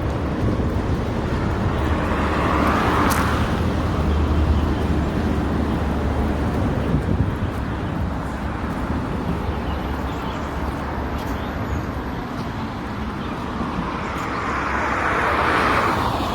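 Street traffic noise: a steady hum of road traffic, with one vehicle passing close about three seconds in and another near the end.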